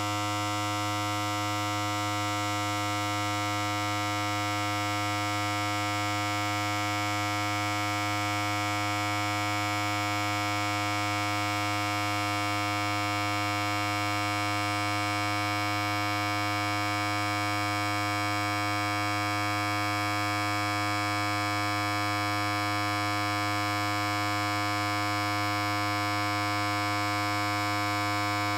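Electric hair clipper running continuously: a steady, unchanging electric hum with a strong low pitch and many overtones.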